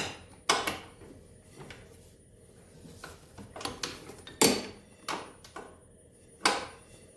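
Box-end wrench on a bolt, clinking each time it is lifted off and set back on for the next short turn. Sharp metallic clicks come at irregular intervals, the loudest about four and a half seconds in.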